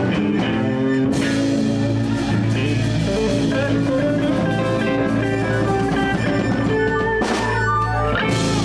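Live blues band playing without vocals: electric guitars, bass and drum kit, with two crashes, about a second in and near the end.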